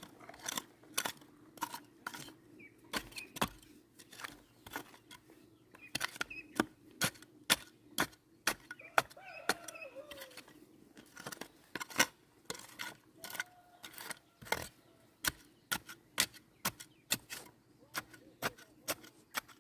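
A run of sharp, short knocks and clicks, irregular at about two or three a second, over a faint steady hum.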